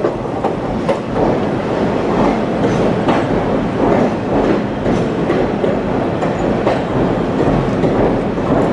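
Moving passenger train heard from aboard: a steady rumble with wheels clattering over the rails.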